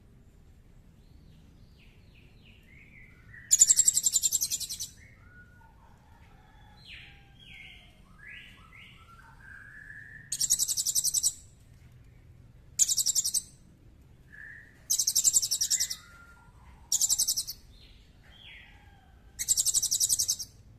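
Songbirds calling: six loud, sharp, very high rattling trills of about a second each, spaced irregularly, with softer whistled chirps and slurred notes between them.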